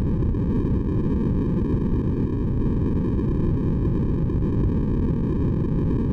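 Steady, unchanging synthetic white noise for sleep, low and muffled, with its weight in the low end.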